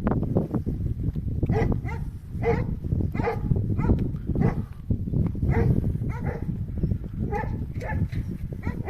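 Animal calls repeating about once or twice a second, overlapping one another, over a steady low rumble.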